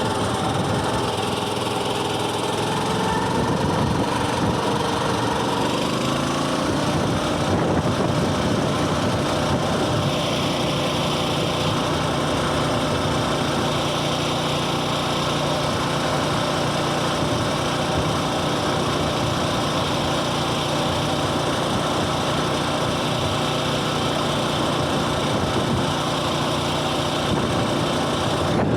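A Coleman mini bike's small single-cylinder engine running under way. Its pitch drops over the first six seconds as the bike slows, then holds steady at a cruising speed.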